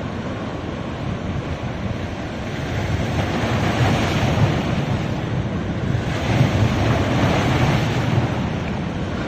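Ocean surf breaking and washing up a beach, building in two swells, about three seconds in and again about six seconds in.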